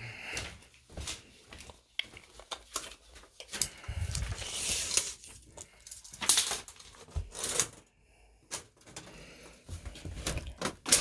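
Handling noises from measuring with a tape measure: scattered clicks and knocks, with a few longer rustling scrapes about four, six and a half and seven and a half seconds in.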